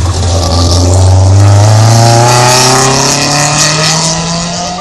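Rally car engine accelerating hard out of a hairpin, loud, its revs climbing steadily in one long rise.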